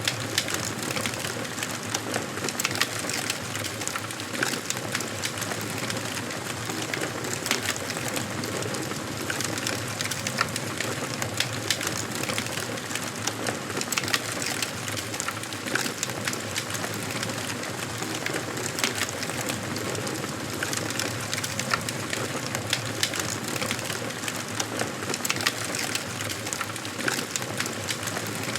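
Wood fire burning in a fireplace: a steady rush of flame with frequent, irregular sharp crackles and pops from the burning logs.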